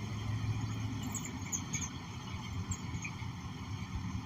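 Steady low rumble of a nearby motor vehicle's engine running, with a few faint high squeaks between one and two seconds in.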